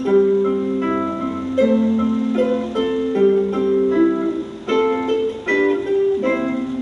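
Ukulele music: plucked strings playing a melody over chords, one note after another.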